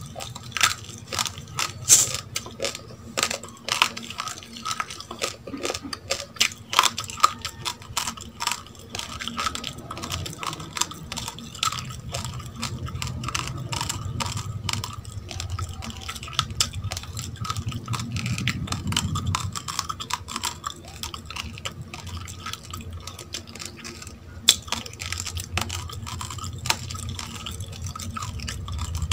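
Close-up chewing of raw, oven-dried rice grains: dense, irregular crunching and crackling clicks, with a low steady hum underneath.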